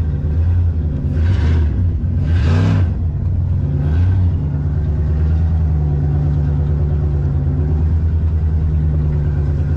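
Pickup truck engine running while the truck is driven, rising briefly in revs twice in the first three seconds, then holding a steady drone.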